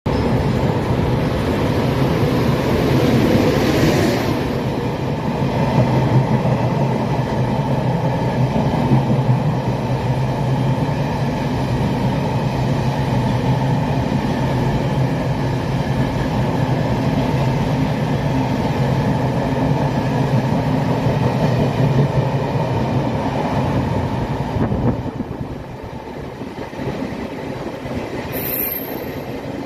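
E500 electric locomotive hauling a thirteen-car train out of the station: a steady electric hum with the rumble and clatter of the coaches rolling. A hiss comes in the first few seconds, the sound falls quieter after about 25 seconds, and a brief high squeal drops in pitch near the end.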